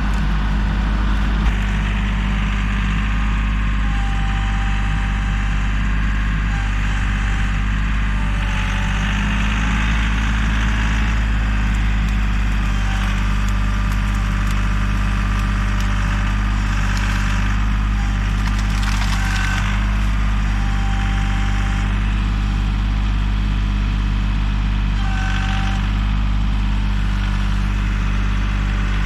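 Kioti CK3510 compact tractor's diesel engine running steadily, with short high-pitched squeaks now and then and one sharp click about a second and a half in.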